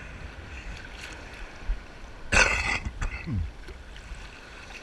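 Sea water sloshing and lapping close to the microphone of a camera held by a swimmer in the surf, with one loud splash about halfway through. Low wind rumble on the microphone underneath.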